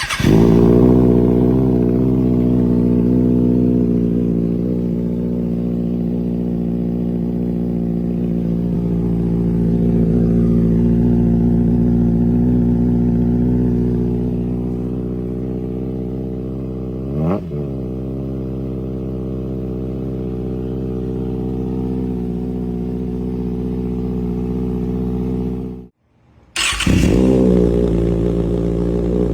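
2024 Kawasaki Ninja ZX-6R's inline-four running on an aftermarket exhaust, idling steadily, with one quick throttle blip about 17 seconds in. Near the end the sound cuts out briefly and the engine is heard idling again.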